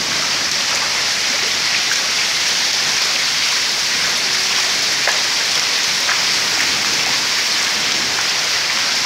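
Heavy rain falling steadily, a dense, even hiss with a few faint taps.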